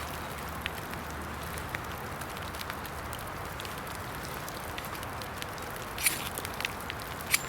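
Small wet-weather fire of dead sticks crackling, with scattered sharp pops: a cluster about six seconds in and a louder one near the end. Rain patters steadily.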